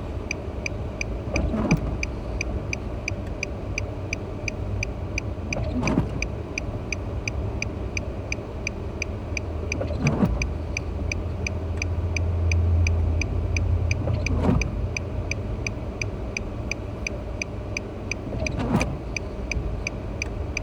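Car cabin rumble with a steady, even ticking like a turn signal. A windshield wiper sweep comes about every four seconds, clearing snow.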